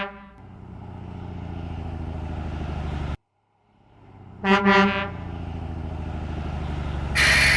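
Truck sound effects: a low pulsing engine rumble that grows louder and cuts off suddenly about three seconds in, then a double honk of a truck horn, the engine rumble again, and a loud burst of hiss near the end.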